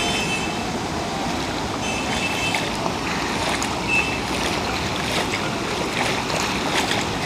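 Floodwater rushing in a steady wash of noise, with a few brief high tones about two and four seconds in.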